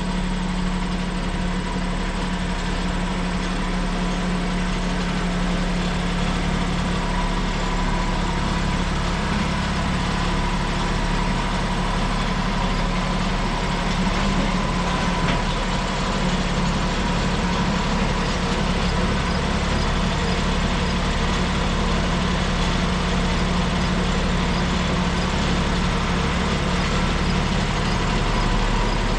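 Tractor engine running steadily at a constant pitch while it manoeuvres a hitched portable sawmill into position.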